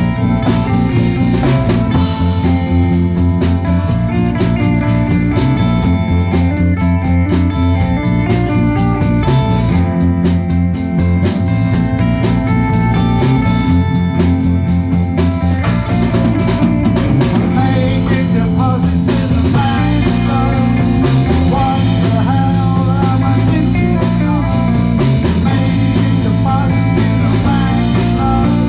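Live rock band playing: electric guitar over bass guitar and a drum kit with a steady beat.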